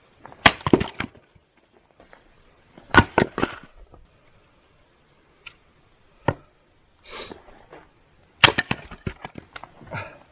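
An axe splitting firewood: a few hard strikes, the loudest about half a second, three seconds and eight and a half seconds in, each followed by the cracking of the split wood, with lighter knocks in between.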